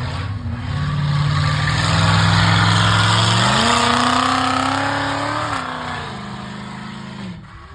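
A motor vehicle engine running steadily, then revving up about three and a half seconds in and holding higher before easing back down in two steps and dropping away near the end.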